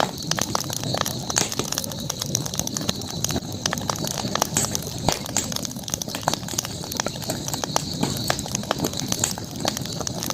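Campfire burning with dense, irregular crackling and sharp pops, over a steady high hiss.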